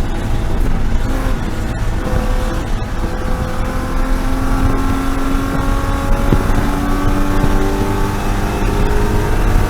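BMW E36 M3 race car's straight-six engine pulling under load, its pitch climbing slowly and steadily through the second half, over a heavy low rumble of road and wind noise.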